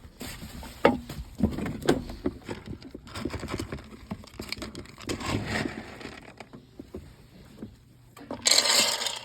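Irregular knocks, clicks and scrapes of things being handled, the sharpest about a second in, then a short loud rush of hissing noise shortly before the end.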